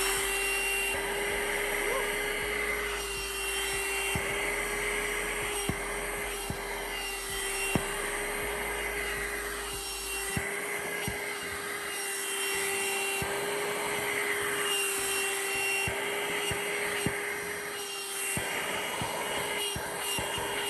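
VacLife VL189 cordless handheld vacuum switched on, its motor spinning up to a steady whine within the first moment and then running, with rubbing noise and scattered small clicks as the nozzle is worked over a surface.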